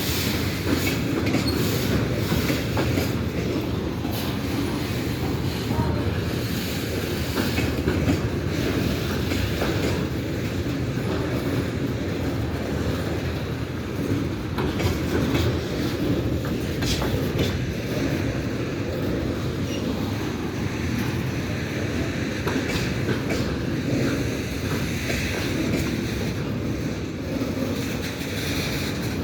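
Freight train rolling past, with a steady rumble of wheels on rails and sharp clacks as the wheels cross the rail joints.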